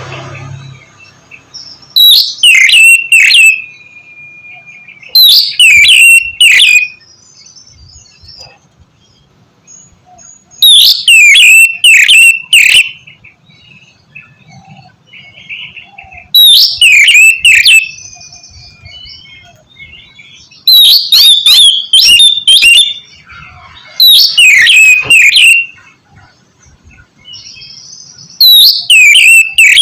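Oriental magpie-robin calling in about seven loud bursts, roughly every four seconds. Each burst is a second or two of sharp rising notes over a clear whistle, with much quieter gaps between.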